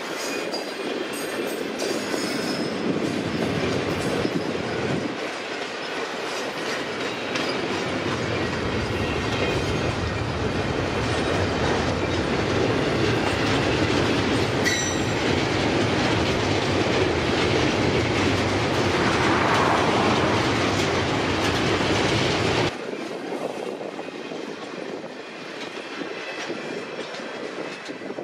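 Railroad cars rolling past on the track, wheels clattering over the rails with a few thin high wheel squeals. The sound builds steadily, then drops suddenly to a much lower level about 23 seconds in.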